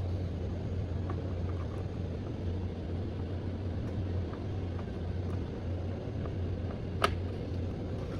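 Steady low hum of room noise, with one sharp click about seven seconds in, as a RAM module is seated in its motherboard slot.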